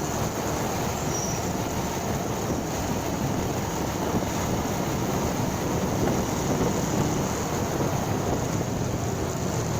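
Motorcycle engine running steadily while riding, mixed with wind rush on the bike-mounted microphone.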